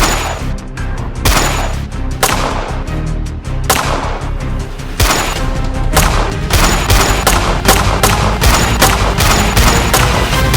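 A string of gunshots, coming faster in the second half, over background music.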